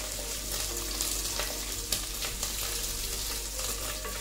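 Ginger-cumin paste sizzling in hot oil in a kadai, stirred with a wooden spatula that scrapes and taps against the pan now and then.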